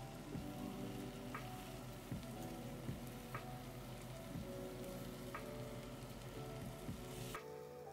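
Chopped tomatoes, onions and dried red chillies sizzling in a stainless steel pan as they are stirred with a metal spatula, over soft background music. The sizzle cuts off suddenly near the end.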